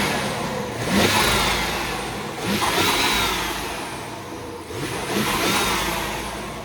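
BMW M550i's 4.4-litre twin-turbo V8 revved three times from idle, each rev rising sharply and then settling back. It revs cleanly, and the seller says it runs great.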